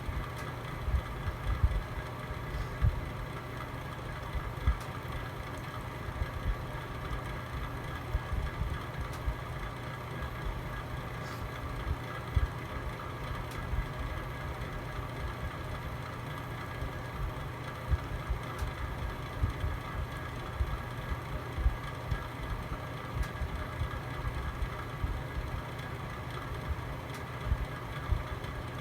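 Fire burning in a home fireplace: a steady low rumble of flame with irregular crackles and pops every second or so throughout.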